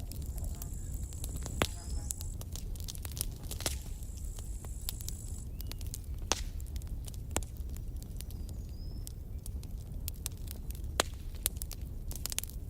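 Campfire burning, with scattered sharp crackles and pops over a steady low rumble. A thin high hiss sounds through the first few seconds, then stops.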